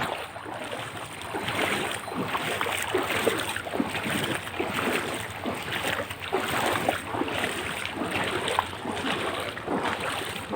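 Wading through floodwater on foot: repeated sloshing and splashing of water around the legs with each step.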